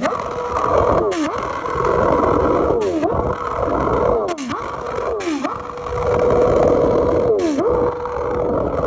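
Engine revving hard and held at high revs, dropping in pitch and coming straight back up five times, each dip with a short sharp hiss.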